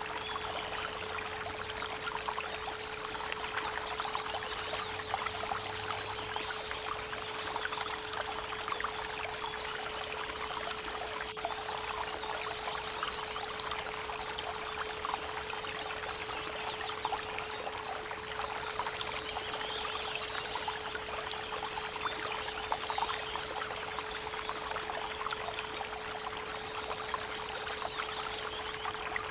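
Creek water running and trickling, with a steady pure tone, the 432 Hz 'Earth tone', held underneath. A small bird trills briefly, about nine seconds in and again near the end.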